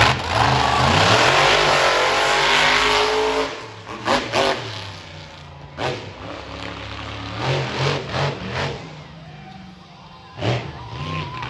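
Monster truck engine at full throttle with rising revs for the first few seconds, then dropping to a lower running note broken by repeated short, sharp bursts of throttle.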